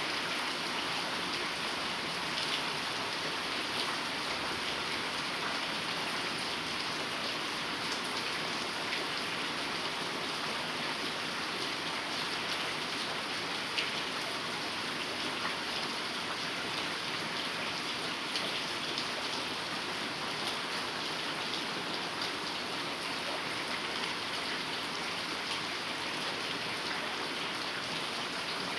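Heavy rain falling steadily, a dense even hiss with many individual drops ticking on a surface, a slightly sharper drop about halfway through.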